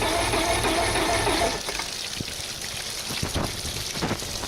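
Mercury Optimax 175 two-stroke V6 outboard being cranked over by its electric starter: a whirring whine with even pulses that stops about a second and a half in, without the engine catching. A few scattered clicks and knocks follow.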